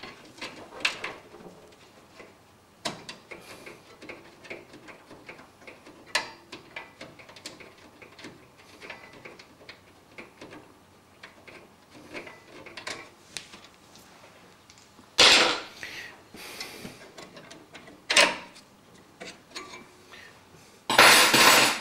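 Scattered small clicks, taps and knocks of computer parts and the case being handled, with two louder noisy bursts: one about fifteen seconds in and one near the end.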